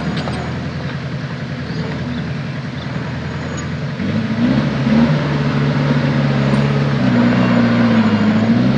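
Heavy diesel engine of the earthmoving machinery running, getting louder about four seconds in, with its pitch rising and falling as it works.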